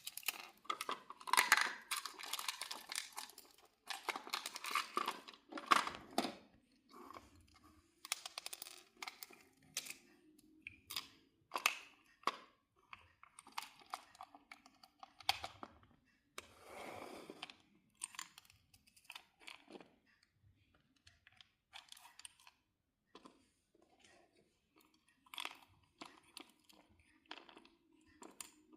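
A toy garbage truck being handled: irregular clicks, knocks and crinkling, busiest in the first few seconds, with a faint low hum now and then.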